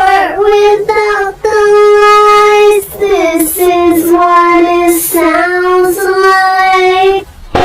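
A high solo voice singing long held notes, sliding between pitches, with little or no accompaniment; a short break comes near the end.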